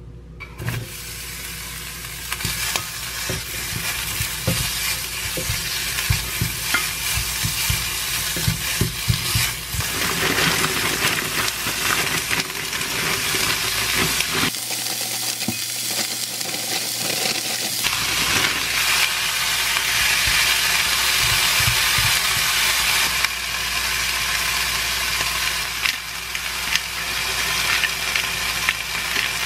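Sliced onion and frozen mixed vegetables sizzling in olive oil in a frying pan. The sizzle starts about half a second in, with scattered clicks from stirring.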